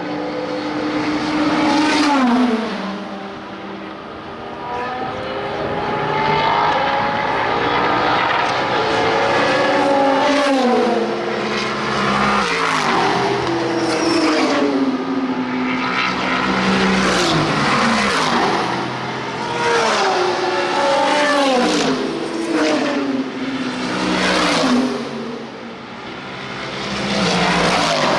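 IMSA sports-prototype and GT race cars passing one after another at racing speed, often several at once. Each engine note drops in pitch as the car goes by.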